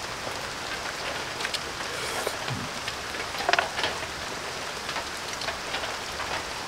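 Steady rain falling, an even hiss, with a few soft clicks, the loudest about three and a half seconds in.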